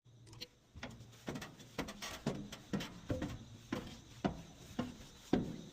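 Footsteps on a hard floor, a steady walking pace of about two steps a second.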